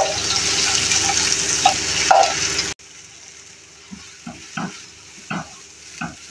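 Poppy seeds frying in ghee in a pan, sizzling steadily. After a sudden cut a little under three seconds in, the sizzle is quieter and a spoon scrapes through the seeds about six times as they are stirred.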